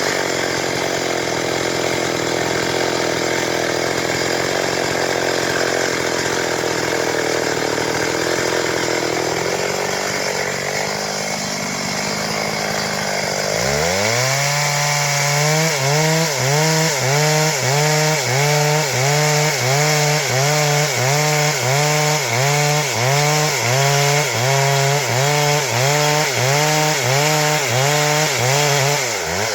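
Stihl MS 382 two-stroke chainsaw running under load as it cuts through wood. About halfway through, the engine pitch rises and then dips and recovers rhythmically, a bit more than once a second.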